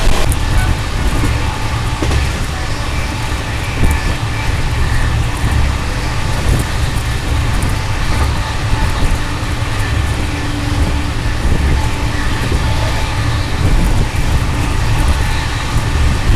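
Express passenger train running along the track: a steady low rumble of wheels and coach, with scattered faint clicks and rattles.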